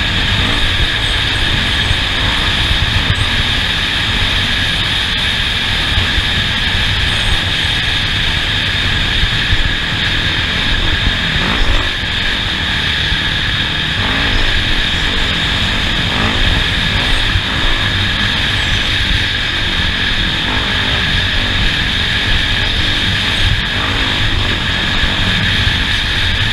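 Off-road vehicle's engine running steadily under way, mixed with wind and drivetrain rumble as heard on board.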